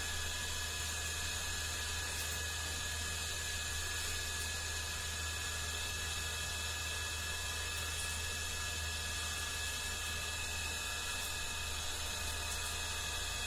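Steady electrical hum with a constant hiss and a few fixed high tones, unchanging throughout, with no distinct events.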